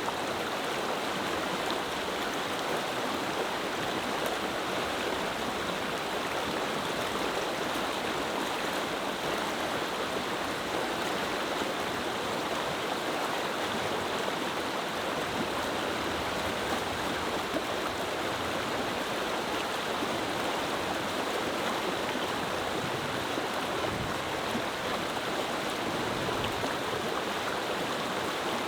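Clear mountain river flowing over stones, a steady babbling rush of water.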